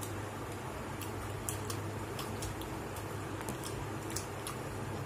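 Close-up eating sounds: soft, irregular mouth clicks and smacks from chewing a mouthful of biryani, over a steady low hum.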